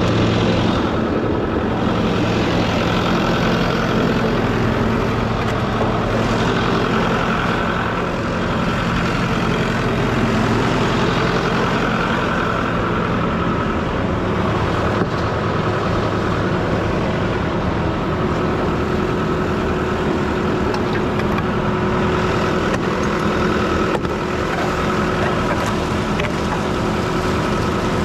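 Heavy diesel engine running steadily at constant speed on a concrete pumping job during washout, with a steady wash of noise over it.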